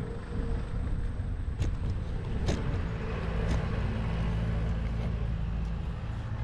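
Motor vehicle engine running amid road traffic: a steady low rumble, with a few sharp clicks about one and a half, two and a half and three and a half seconds in.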